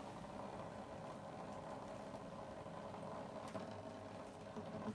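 A small motor's faint, steady hum.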